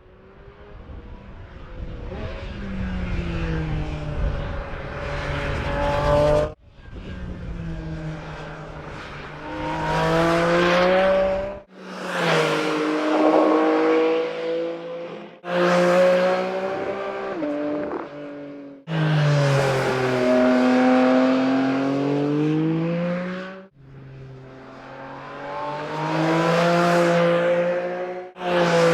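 Porsche 718 Cayman GT4 RS's naturally aspirated 4.0-litre flat-six running under hard driving, its pitch climbing and falling as it revs. It comes in about seven short stretches with sudden cuts between them.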